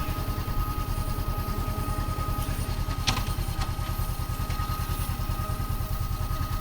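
Motorcycle engine running steadily with an even pulsing beat, with a single click about three seconds in.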